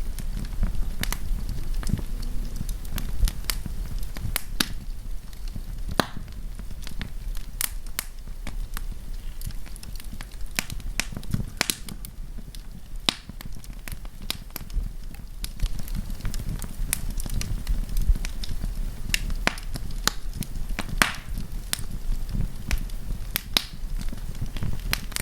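Wood campfire crackling, with frequent irregular sharp pops and snaps over a steady low background noise of the burning.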